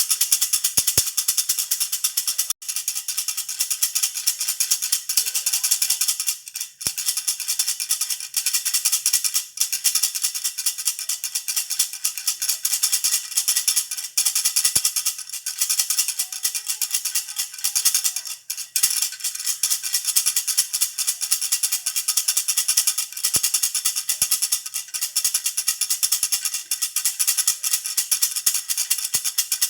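A jhunjhuna baby rattle shaken fast and without stopping, a dense, bright jingling with a few very short breaks.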